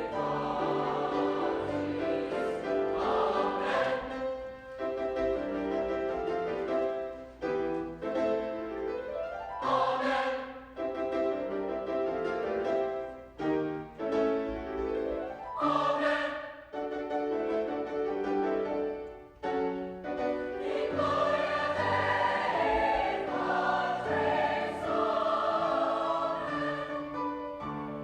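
High school choir singing, holding chords in phrases with short breaks between them.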